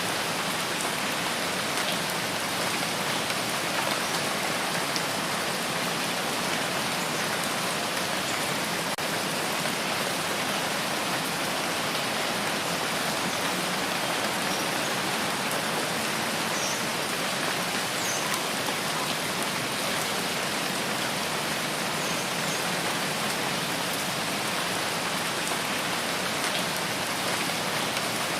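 Steady, heavy rain falling in a rain forest, an even dense hiss with no let-up.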